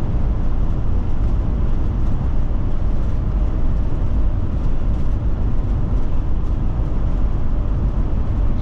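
Steady road and engine noise of a Forest River Forester motorhome driving at road speed, a continuous low rumble with no distinct events.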